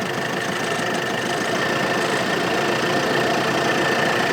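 Diesel 4x4 SUV engine running steadily under load, slowly growing louder, with a thin steady high whine over it. The SUV is beached on its engine skid plate in soft ground.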